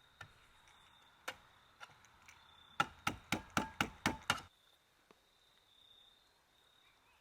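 A few scattered sharp clicks, then a quick run of about seven knocks at roughly four a second that stops suddenly.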